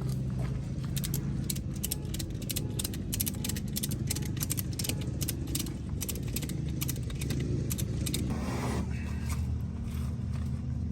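A vehicle engine idling steadily, with a run of quick metallic clicks and rattles over it from work on the tire and wheel.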